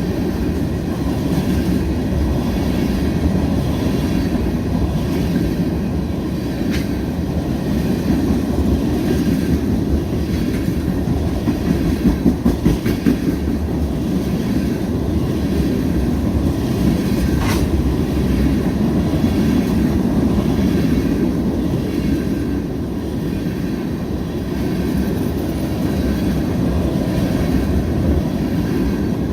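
Freight train of tank cars rolling past: a steady rumble of steel wheels on the rails, with a brief run of rhythmic wheel clacks about halfway through and two sharp clicks.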